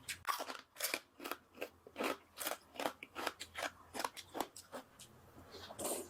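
Crunchy food being chewed close to the microphone: a steady run of sharp, crisp crunches, about three a second.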